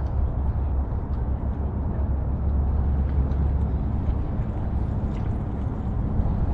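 Wind buffeting the microphone: a steady low rumble with a fluctuating level, over faint outdoor city background.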